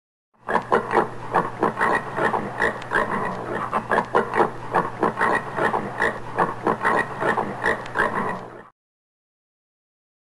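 Common warthog grunting in a quick, unbroken run of short grunts, about five a second. It stops abruptly well before the end, leaving silence.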